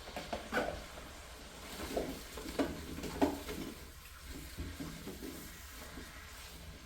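Tongs and sweet potato pieces knocking against a pan as the pieces go into a bubbling butter and sugar mixture, which sizzles lightly. A handful of knocks fall in the first three and a half seconds, then only the quieter sizzle and small clatters remain.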